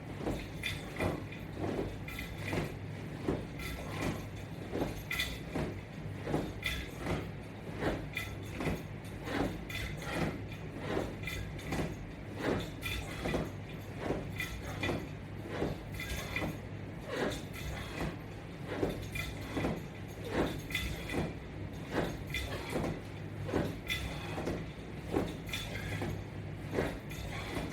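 Sit-up crunch repetitions with straps on a latch bar, each rep making a short sound about every three quarters of a second over a steady low hum.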